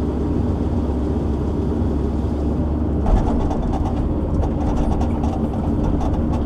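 Heavy diesel engine of a shovel log loader running steadily under work, with a thump about three seconds in, after which more clatter is heard over the engine.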